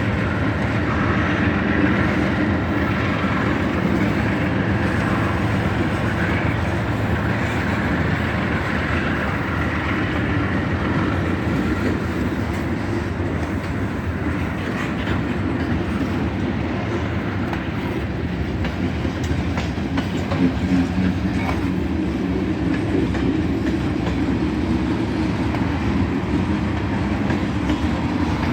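Manifest freight train rolling past, with a steady rumble of steel wheels on the rails.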